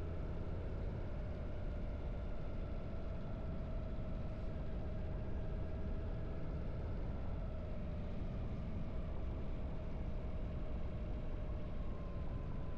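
Harley-Davidson V-twin motorcycle engine running at a steady cruise while riding, a continuous low rumble with no change in speed.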